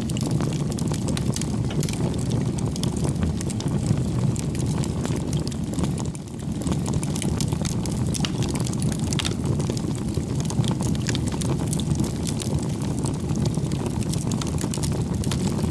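Campfire burning, with quick irregular crackles and pops over a steady low rumble of flame.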